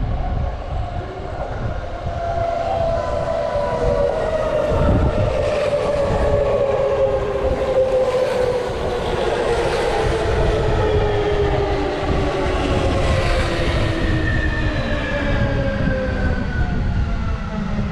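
Electric commuter train in the station: its traction motor whine falls slowly in pitch, as a train slowing down would, over a low rumble of wheels on rail.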